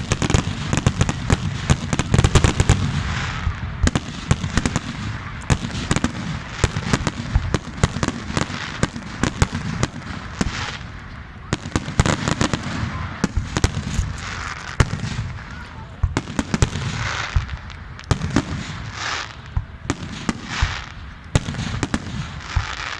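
Fireworks going off in a dense barrage: rapid bangs and crackling, thickest in the first few seconds, over a low rumble.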